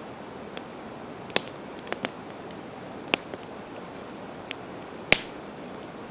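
Campfire of split evergreen wood crackling: scattered sharp pops and snaps, irregular, two louder ones about a second and a half in and near the end, over a steady background rush.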